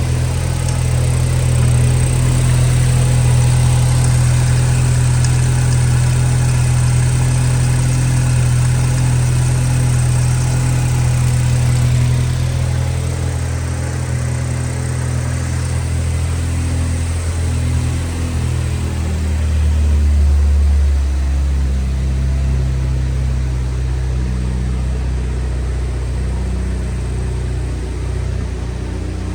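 2014 Ford Focus 2.0L four-cylinder engine running steadily. Its note shifts about twelve seconds in and again about twenty seconds in.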